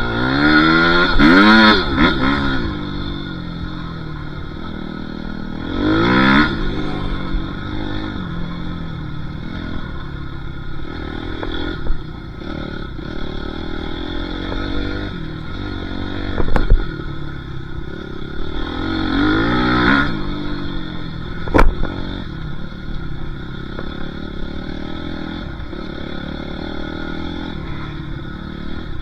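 Motocross bike engine being ridden hard, its pitch swinging up and down as the throttle opens and closes, with big revs near the start, about six seconds in and about twenty seconds in. Two sharp knocks come near the middle and later on.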